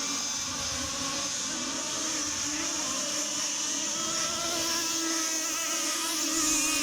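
Several cat26 racing RC boats with 26cc two-stroke petrol engines running at speed together, their engine notes drifting in pitch against each other over a steady high hiss.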